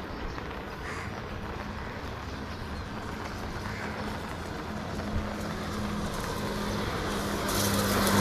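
Road traffic: a motor vehicle's engine hums, drawing nearer and growing louder toward the end.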